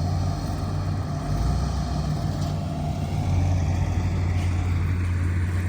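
Diesel engine of a heavy farm machine running hard in a steady, deep drone, the machine labouring in deep mud.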